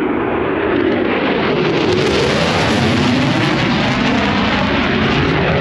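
Fighter jet passing low overhead, its jet engines making a loud, continuous noise that swells in the middle with a slowly sweeping tone as it goes by.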